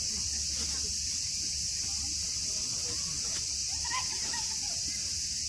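Insects chorusing in a steady, high-pitched drone that does not let up.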